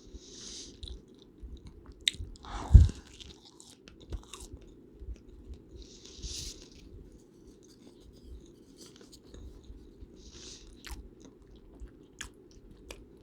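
Close-miked eating of chicken noodle soup: chewing and mouth sounds, with three short hissing sounds spaced about four seconds apart, scattered clicks, and one louder thump about three seconds in. A steady low background noise runs underneath.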